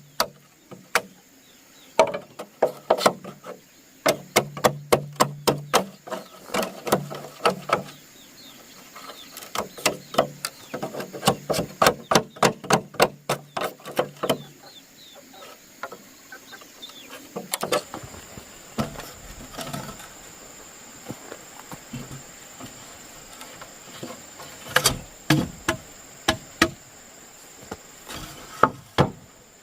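Repeated sharp blows of a tool on wood, coming in quick runs of several a second for the first half, then fewer and more spaced out. A steady high insect drone runs underneath.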